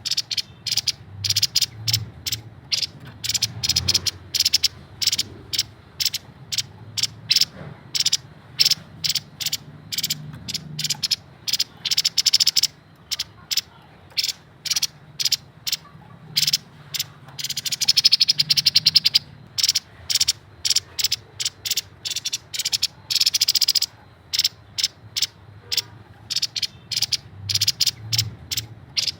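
Grey-headed babbler chattering in long runs of short, sharp, high notes, several a second, with a denser buzzy trill about two-thirds of the way through.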